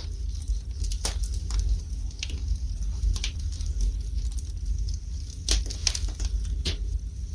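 Wood fire burning in a fireplace: a steady low rumble of flame with irregular sharp crackles and pops of the burning logs.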